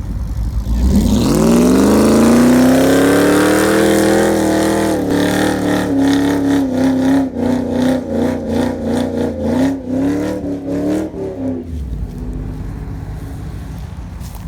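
Modified pickup truck engines at full throttle in a race. The pitch climbs over the first couple of seconds, holds high and wavers, then falls away to a low rumble about twelve seconds in as the throttle comes off.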